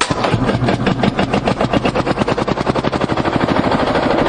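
Vintage tractor engine firing on its cartridge starter: it catches at once and settles into a steady, rapid exhaust beat.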